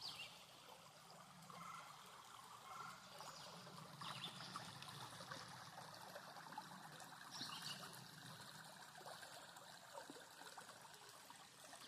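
Faint trickling of a small stream, steady, with a few brief higher sounds over it.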